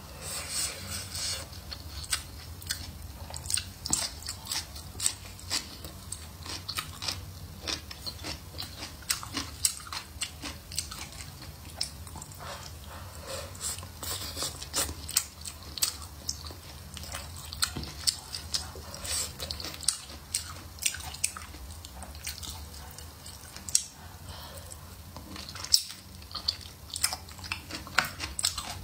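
A person chewing and biting stir-fried pork slices with chillies: wet mouth sounds and many sharp, irregular smacking clicks.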